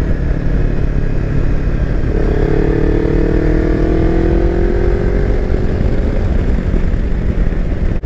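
Kawasaki Versys X300's parallel-twin engine running under way over a steady rush of wind and road noise, with the engine note rising as it accelerates from about two seconds in and fading back into the rush a few seconds later.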